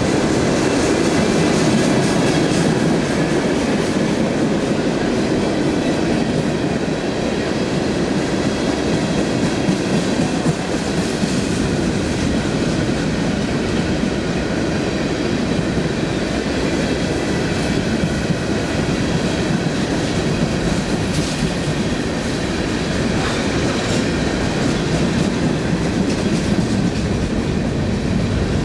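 Railroad cars rolling past on the track: a steady noise of steel wheels on rail, with scattered faint clicks.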